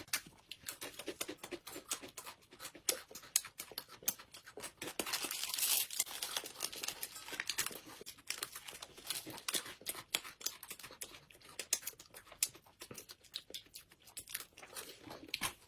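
Close-miked eating: irregular wet clicks, smacks and crackles of chewing, with a brief hissy stretch about five seconds in.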